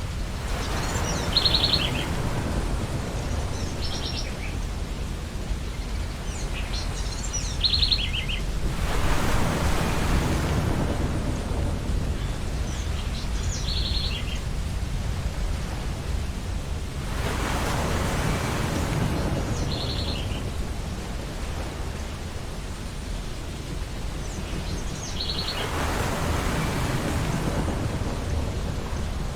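Ocean waves breaking on a beach, a surge of surf about every eight seconds over a steady low rumble, with short high bird calls repeating every few seconds.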